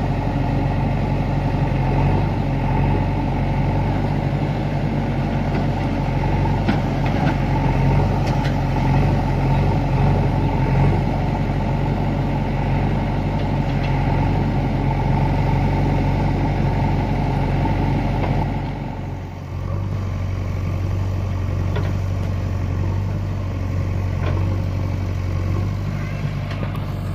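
Tractor diesel engine running steadily with a low drone. About two-thirds of the way through it settles to a lower, smoother hum.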